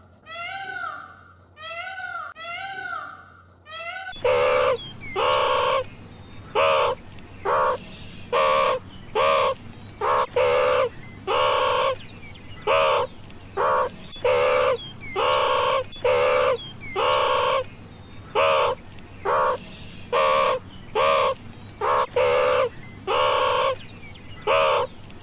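A cat meowing a few times, then from about four seconds in a crow cawing over and over in a long, even series of short harsh caws, a little more than one a second.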